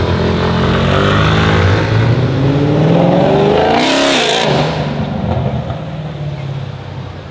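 Mercedes C63 AMG Black Series' 6.2-litre V8, running through a decatted iPE exhaust, accelerating hard with its pitch rising. A brief harsh rasp comes about four seconds in, after which the engine fades as the car pulls away.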